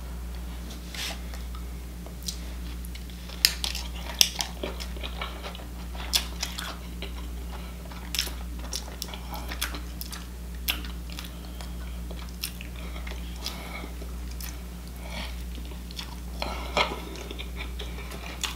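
A person biting into and chewing a sesame-seed bun burger close to the microphone, with scattered short wet mouth clicks and smacks. A steady low hum runs underneath.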